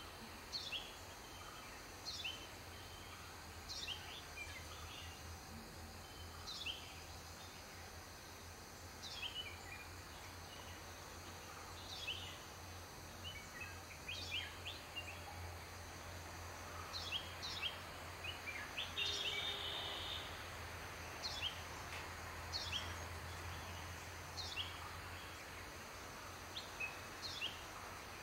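A small bird's short, sharp chirps, each falling in pitch, repeated every second or two, over a steady faint background hum.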